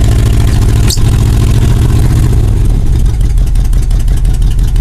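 1987 GMC 2500's carbureted 350 small-block V8 running cold after a cold start. About two and a half seconds in, its speed drops from a faster idle to a slower idle with each firing pulse distinct; a single click about a second in.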